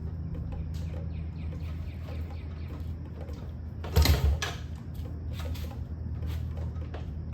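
Kick-start attempt on a Yamaha TTR-110 dirt bike: one loud thump of the kick lever about four seconds in, with a few lighter clicks, and the engine does not catch. The bike is low on fuel. A steady low hum runs underneath.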